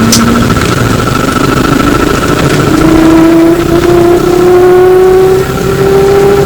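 Electric traction motor of an E902 Flyer trolleybus whining and rising slowly and steadily in pitch as the bus accelerates, over a steady higher-pitched tone. A sharp click comes right at the start.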